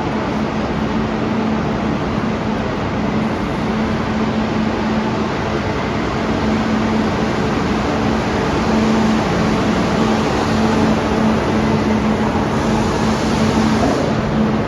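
Train in a station running with a steady mechanical hum and a low, steady tone, with a brief rise in hiss near the end.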